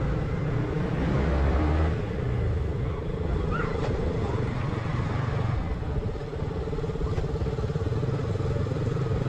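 Motorcycle engine running steadily while being ridden, with a continuous rush of road and wind noise.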